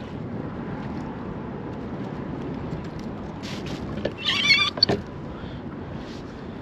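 Steady wind and water noise around a kayak, broken about four seconds in by a loud, high, wavering cry lasting about half a second, followed by a sharp click.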